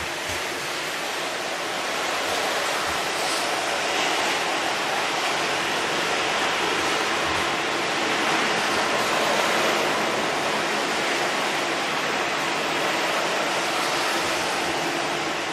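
Heavy typhoon rain and wind: a steady rushing noise of downpour that rises a little about two seconds in.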